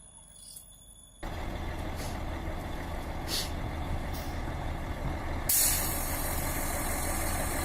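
Heavy truck engine running after a sudden start about a second in, with short hisses and a louder, lasting hiss of air starting about five seconds in.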